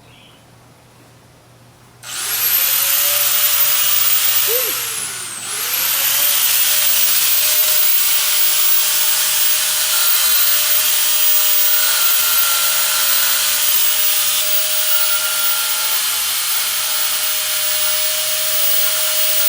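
Electric angle grinder with a cut-off wheel spinning up about two seconds in, slowing briefly a few seconds later, then running steadily while cutting links off a dirt bike chain.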